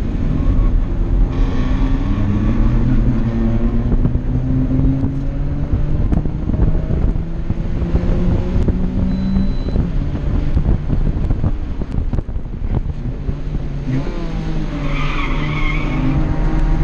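Small 660 cc kei-car engine heard from inside the cabin under race use, its pitch rising and falling as the driver accelerates and lifts between corners. Near the end the tyres squeal briefly through a corner.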